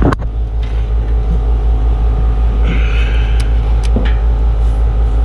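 Steady low rumble of a running engine, with a sharp click at the start and a brief rasp about three seconds in.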